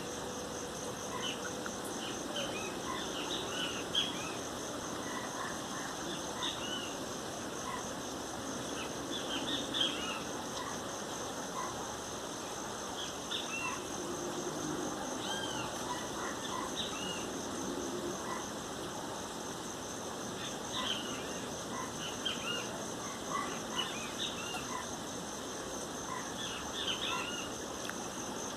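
Great kiskadees (bem-te-vi) calling in scattered bursts of short chirping notes, over a steady, high-pitched pulsing insect trill.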